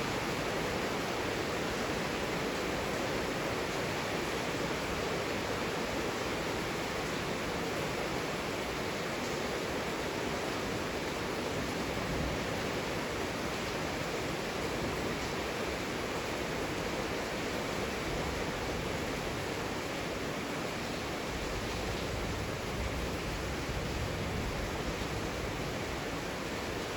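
Heavy rain falling steadily, an even hiss with no separate drops or pauses.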